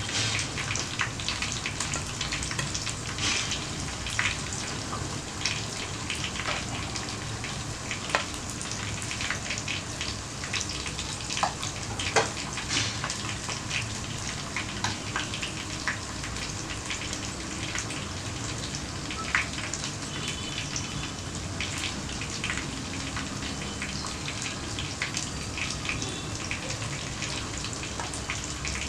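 Sardines being laid out on an oiled plate: scattered light clicks and taps over a steady background hiss.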